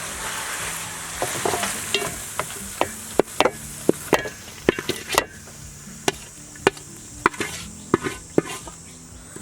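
Food being stir-fried in a pan: a metal spatula clacks sharply and irregularly against the pan, about one to two strikes a second, over a sizzling hiss.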